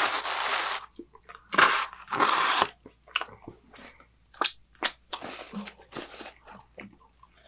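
Close-miked chewing of pepperoni pizza: loud crunchy chews with wet mouth clicks, then a softer paper-napkin rustle about five seconds in as hands are wiped.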